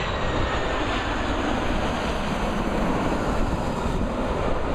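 Large commercial jet airliner on final approach, passing low overhead. Its engines make a loud, steady rush, with a faint whine that slowly falls in pitch.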